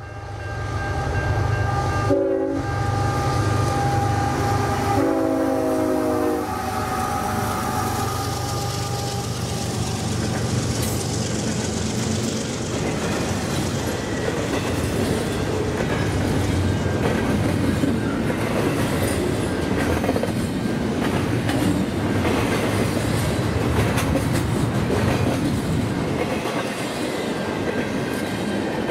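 CN double-stack container train led by GE GEVO diesel locomotives (ET44AC and ES44AC) sounding its horn, a short blast about two seconds in and a longer one around five seconds, with the engines working hard as the train gets back up to track speed. Then the steady rumble and clatter of the container cars' wheels rolling past on the rails.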